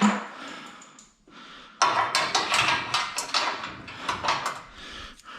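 Metal scaffolding parts clinking and rattling as safety pins are put into the crossbars: a sharp knock at the start, then a quick run of metal clicks and knocks that lasts about three seconds.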